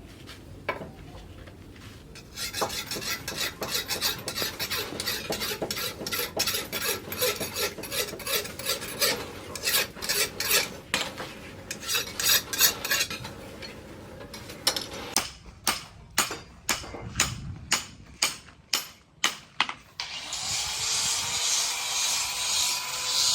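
A steel sickle blade being sharpened by hand with file or stone strokes: fast rubbing strokes, then slower separate strokes about two a second. A steady hiss takes over near the end.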